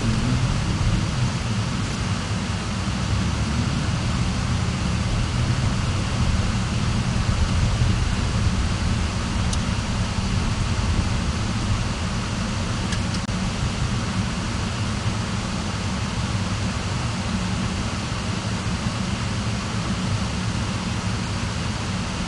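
Steady engine and road noise of a car being driven, a continuous low rumble with no change in pace.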